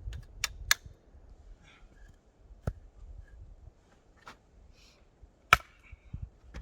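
Wood being chopped: about six sharp, irregularly spaced strikes, the loudest near the end.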